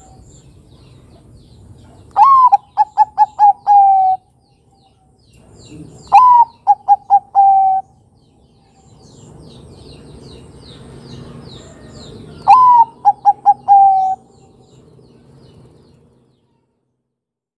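Zebra dove (perkutut, Bangkok type) cooing its song three times. Each phrase is a rising-then-falling opening note, a quick run of short coos, and a longer held coo at the end. Faint high chirps of small birds sound in the background.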